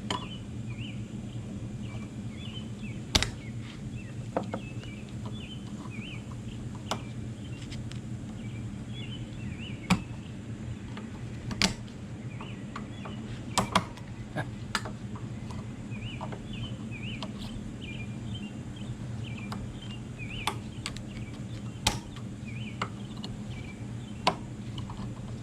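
Scattered sharp metal knocks and clinks, about a dozen at irregular intervals, from work on a pickup's drive shaft universal joint, over a steady low hum. Small birds chirp in the background.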